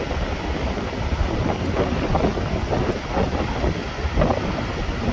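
Mountain stream rushing over rocks, a steady churning rush with a deep low rumble and constant bubbling flicker.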